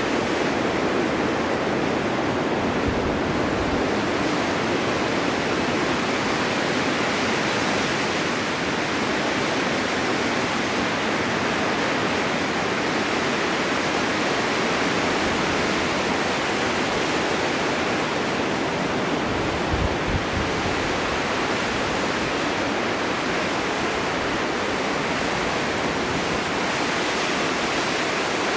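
Steady rushing snowstorm wind, an even, unbroken noise with no lulls, and a brief low thump about 20 seconds in.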